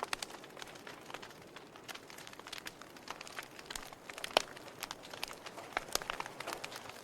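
Wood fire burning in a fireplace, crackling with irregular sharp pops over a soft steady hiss; the loudest pop comes about four and a half seconds in.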